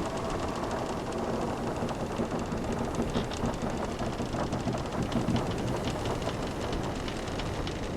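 Wooden sailing ship's timbers creaking, with many small ticks and short creaks over a steady wash of ocean waves.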